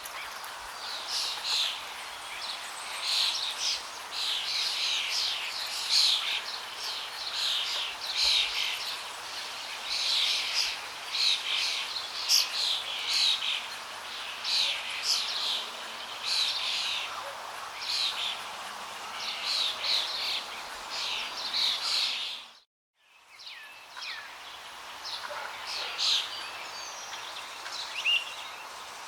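Many birds chirping and singing rapidly over a steady hiss of flowing water. About three quarters of the way through, everything cuts out abruptly for about half a second, then fades back in with fewer bird calls.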